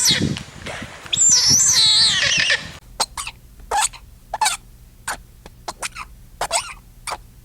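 Bird calls: high warbling, gliding notes, then after an abrupt change a little under three seconds in, a series of short, sharp chirps, about a dozen, spaced irregularly.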